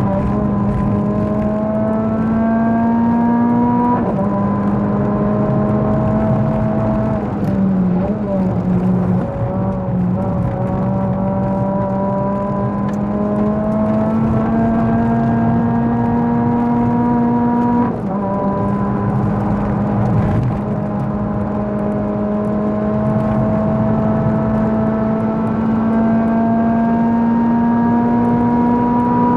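Renault Clio Sport 197's 2.0-litre four-cylinder engine through a Supersprint race exhaust, heard onboard under hard acceleration on track: the pitch climbs steadily in long pulls, with sudden gear changes about four seconds in and near eighteen seconds. Around eight to ten seconds the pitch falls and wavers as the car slows for a corner.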